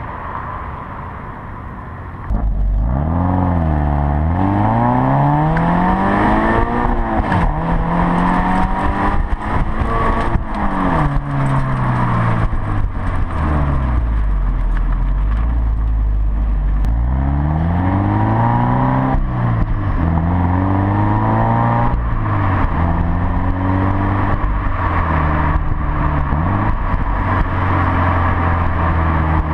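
Subaru BRZ / Scion FR-S 2.0-litre flat-four engine through a Hooker Blackheart axle-back exhaust, idling for about two seconds, then revved again and again, its pitch climbing and falling with each rev.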